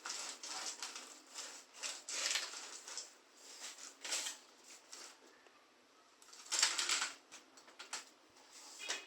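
Irregular clicks and rustles at uneven intervals, with a louder cluster about two-thirds of the way through.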